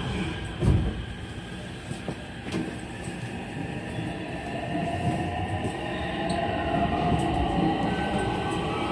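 A 207 series electric commuter train pulling away from a station: a thump about a second in, then running noise that grows as the traction motors' whine slowly rises in pitch during acceleration. The motors keep their original, unchanged sound.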